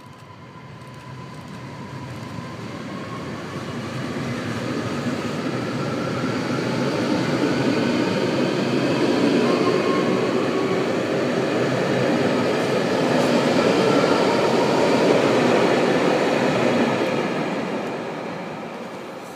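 Electric commuter train running past a station platform without stopping. Its rolling noise on the rails builds as it approaches, is loudest for several seconds as the cars go by, then fades as the last car pulls away. A thin steady whine is heard as it draws near.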